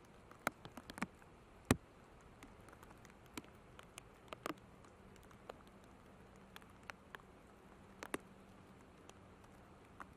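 Raindrops striking close to the microphone in scattered, irregular sharp ticks over a low hiss. A faint steady low hum comes in about four seconds in.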